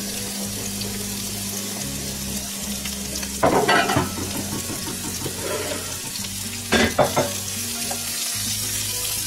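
Sliced onions sizzling in oil in a frying pan, a steady hiss as they are gently fried. Twice, at about three and a half and seven seconds in, a brief louder knock or scrape cuts through.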